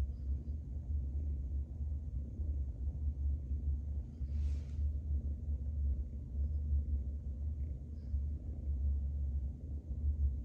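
A steady low rumble that rises and falls unevenly, with a brief hiss about four seconds in.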